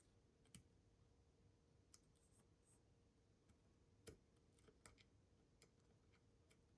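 Near silence with a handful of faint, short clicks from a small screwdriver working a tight screw in a plastic car key body.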